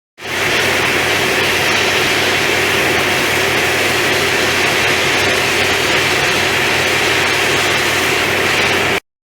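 Pressure washer spraying steadily: a loud hiss from the water jet over a low, even hum from the machine's motor.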